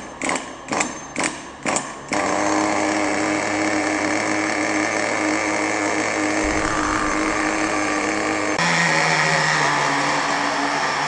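Team Infinity .18 nitro engine in a 1/10 RC monster truck being cranked over in short bursts, about two a second, then catching about two seconds in and running steadily; its note shifts near the end. This is a restart after the high-speed needle was leaned 1/8 turn to stop it running too rich and flooding.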